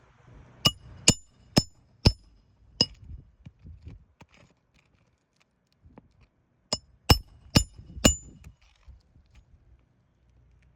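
Hammer blows with a sharp metallic ring, in two runs: five strikes about two a second, a pause, then four more.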